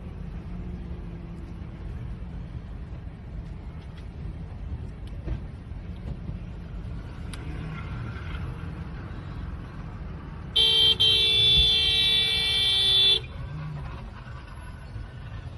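Steady low rumble of road traffic, then about ten seconds in a car horn sounds in one long blast of about two and a half seconds, with a brief break just after it starts.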